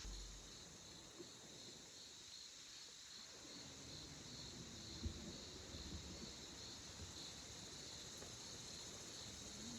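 Faint, steady chirring of forest insects, pulsing about twice a second, with a single soft knock about five seconds in.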